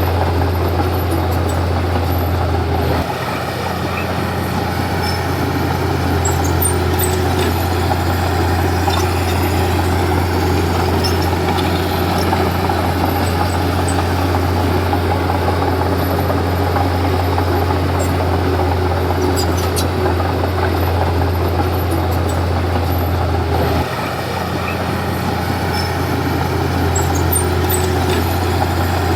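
Komatsu D31P bulldozer's diesel engine running steadily. Its note drops briefly about three seconds in and again near the end, then climbs back.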